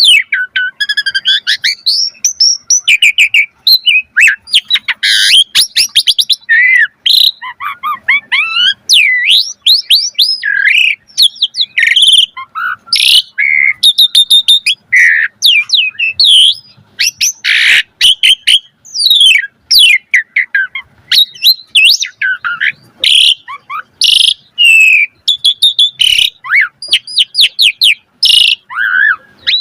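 Asian pied starling singing a long, varied song without pause: loud whistled notes, quick rising and falling sweeps, rapid trills and sharp clicking notes, one phrase after another.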